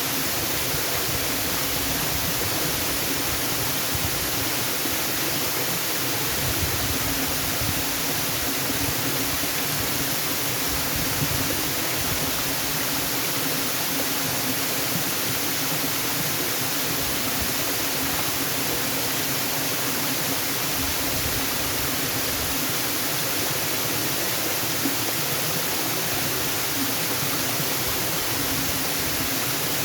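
Waterfall rushing steadily: an even, unchanging noise spread from the lows to the highs.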